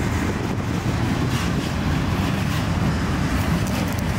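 Autorack freight cars rolling past at close range: a steady, even rumble of steel wheels on the rails.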